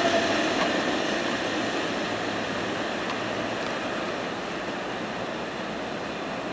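Freight train of tank wagons rolling away on the rails, its wheel and rail noise a steady hiss-like rumble that fades gradually as the train recedes.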